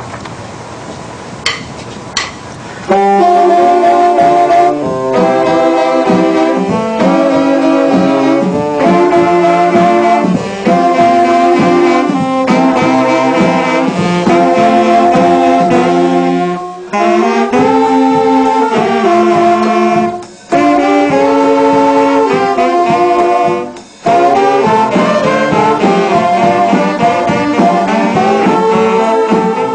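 A saxophone-led instrumental wind group playing a tune in harmony. The music comes in about three seconds in, after two short clicks, and pauses briefly a few times between phrases.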